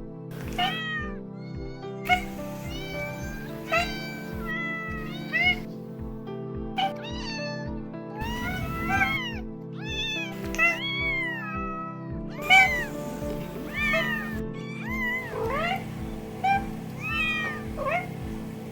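Domestic cats meowing, one short meow after another, many rising then falling in pitch, over background music with a steady beat.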